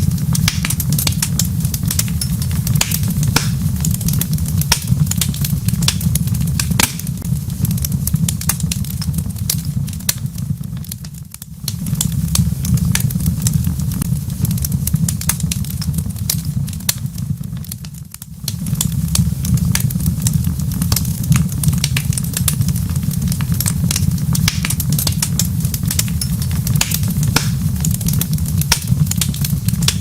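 Wood fire crackling in a fireplace: many sharp pops and snaps over a steady low rumble. The rumble fades briefly twice around the middle.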